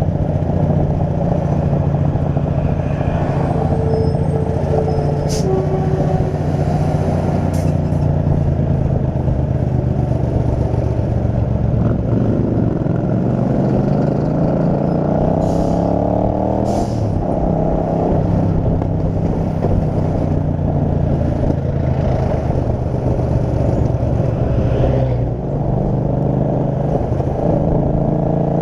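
Kasinski Mirage 250's V-twin engine running steadily on the highway. About halfway through the engine note rises for several seconds and then drops sharply, as on an upshift.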